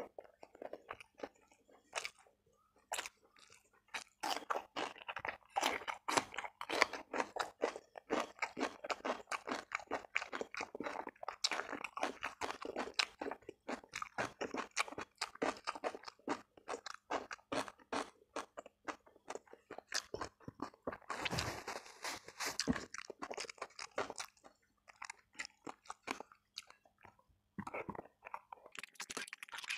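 Close-miked chewing of a mouthful of rice and fried tempe, with wet mouth sounds and crisp crunches, pausing briefly twice between bites.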